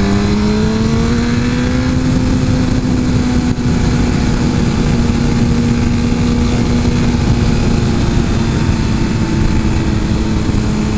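Suzuki GSX-R 1000 inline-four engine running at a steady road speed under light throttle, its pitch rising slightly over the first couple of seconds and then holding, with wind rush.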